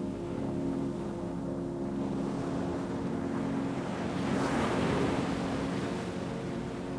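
An ocean wave swells and washes in, loudest about four and a half seconds in, over a steady low ambient drone.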